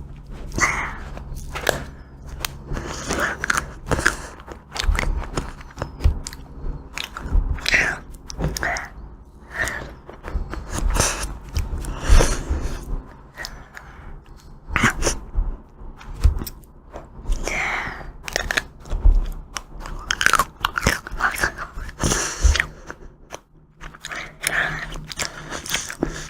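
Close-miked eating of ice cream: a person biting and chewing, with many short sharp bites at irregular intervals.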